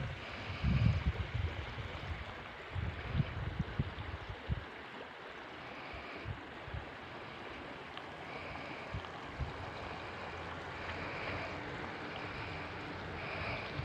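A mountain stream flowing steadily, with gusts of wind buffeting the microphone in the first few seconds. Faint short high-pitched notes recur in the second half.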